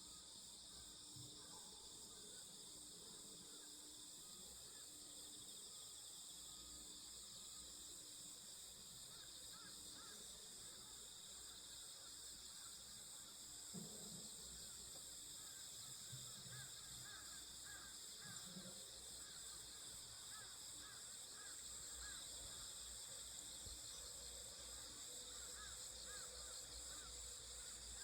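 Faint, steady high-pitched chorus of insects, with soft repeated bird calls joining in from about a third of the way through.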